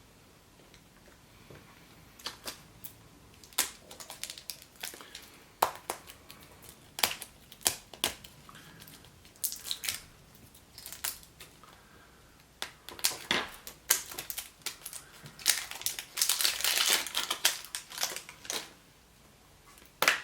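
Foil wrapper of a Chupa Chups chocolate surprise egg crinkling and tearing as it is unwrapped by hand, in irregular crackles and clicks that are densest near the end.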